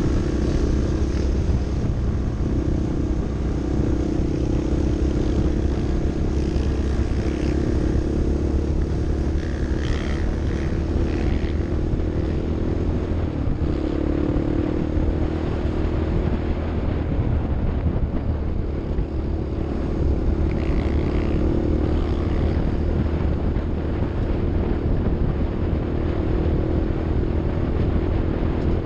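Off-road vehicle's engine running steadily under way, a constant low drone that wavers only a little in pitch.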